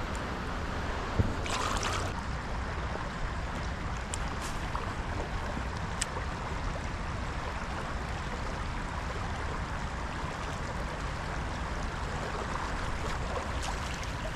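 Steady rush of flowing river water, with a few light knocks and a brief louder swish about two seconds in.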